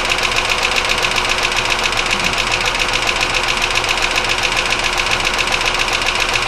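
1999 Chevy Malibu's 3100 V6 running with a rapid, steady internal knock. The owner cannot tell whether the knock is top end or bottom end.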